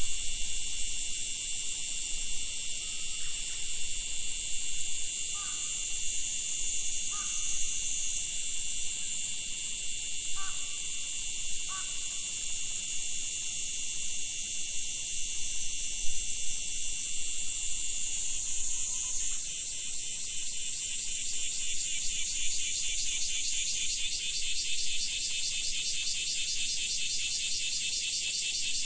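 A chorus of insects shrilling steadily at a high pitch. About two-thirds of the way in, another insect joins with a fast, pulsing trill.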